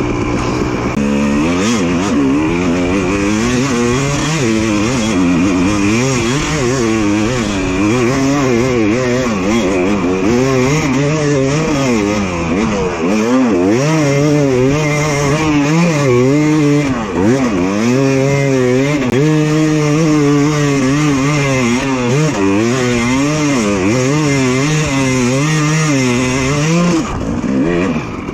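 Two-stroke dirt bike engine revving hard and unevenly, its pitch climbing and dropping every second or two as the throttle is worked under heavy load on a steep hill climb.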